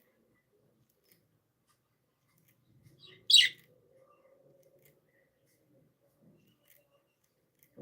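A single short, loud, high-pitched budgerigar chirp about three seconds in, with only faint soft sounds around it.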